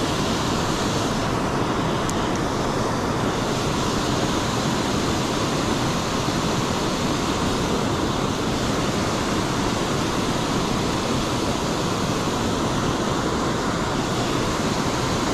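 Steady rush of water pouring over a river spillway, an even, unbroken roar of current.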